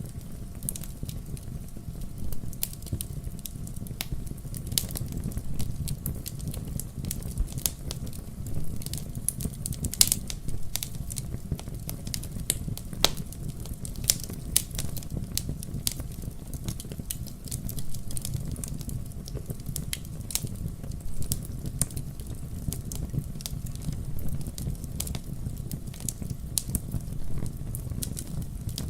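Fire burning in a fireplace: a steady low rumble of flame with frequent sharp crackles and pops, a couple of louder pops about 10 and 13 seconds in.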